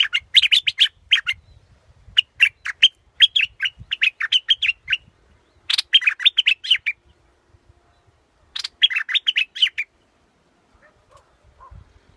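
A bulbul (the Thai "dok taeng" yellow bulbul) singing in four bursts of quick, chirping notes, each burst lasting one to three seconds with short pauses between. Played as a decoy call for luring the bird.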